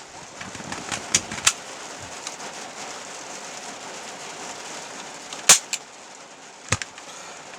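Steady rain falling, heard as an even hiss, with a few sharp knocks or taps, the loudest about two-thirds of the way through.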